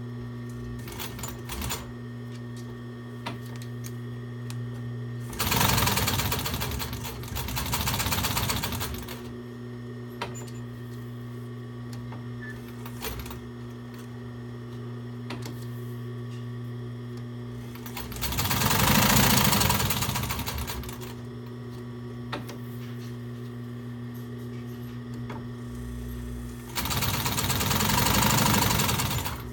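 Nakajima TDU-N62 walking-foot industrial sewing machine stitching with Tex 70 thread in three short runs, at a stitch length of about 2, the second run near the middle and the third near the end. A steady hum carries on between the runs.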